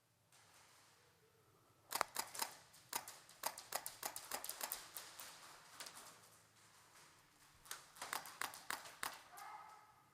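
Airsoft guns firing in a room: a rapid, irregular flurry of sharp pops and bursts that starts about two seconds in and runs until near the end.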